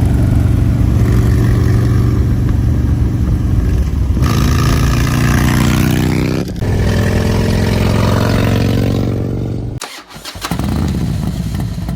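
Harley-Davidson Low Rider ST's Milwaukee-Eight 117 V-twin running loud through a Sawicki 2-into-1 exhaust. Its pitch holds steady, then climbs as it accelerates, drops sharply about six and a half seconds in and climbs again. Near the end it cuts to a quieter, steady engine note.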